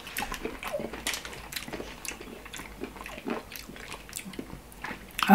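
Chewing and biting of juicy pineapple chunks, with many small scattered mouth clicks.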